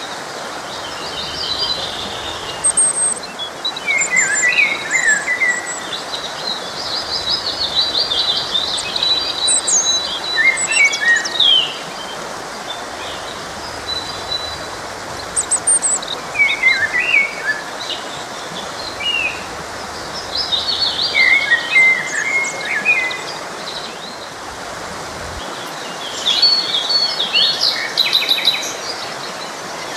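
Songbirds singing and chirping in short phrases every few seconds over the steady rush of a forest stream.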